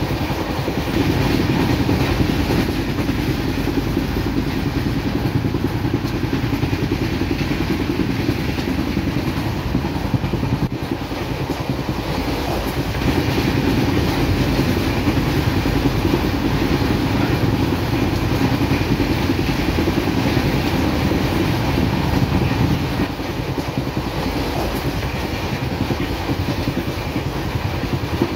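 Running noise of a train moving along the line, heard from inside the coach: a steady rumble and clatter of wheels on the rails. It grows louder about a second in and eases somewhat near the end.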